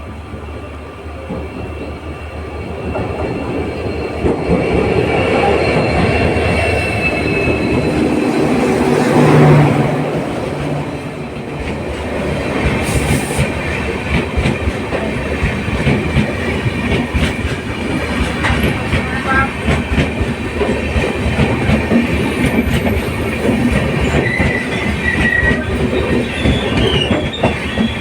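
LHB passenger coach running along the track, its wheels clattering fast over the rails with brief high wheel squeals. The noise builds over the first few seconds, then stays steady.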